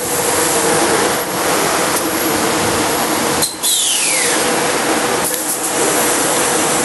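Electric commuter train pulling in alongside the platform and slowing, a steady loud rush of wheel and running noise, with a brief high whine that falls in pitch about halfway through.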